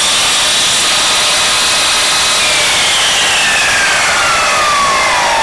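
Electric power saw cutting through a wooden board, running loud and steady. Its motor whine drops steadily in pitch through the second half as the blade slows.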